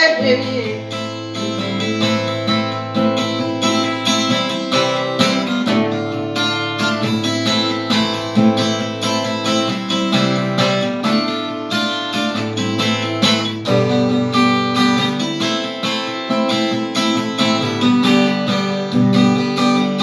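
Acoustic guitar strummed and picked in a steady rhythm, playing an instrumental passage with no singing.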